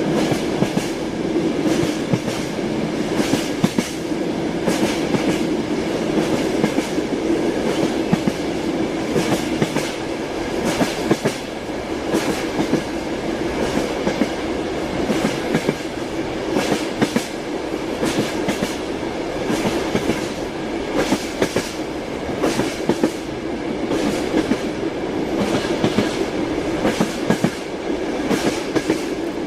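Train wheels clicking over rail joints in a continuous run, over a steady rolling hum of a moving train.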